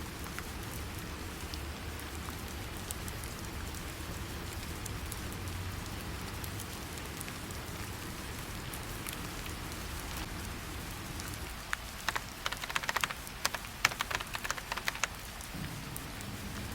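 Steady rain falling. About twelve seconds in comes a run of sharp clicks and taps lasting around three seconds, and a low steady hum starts near the end.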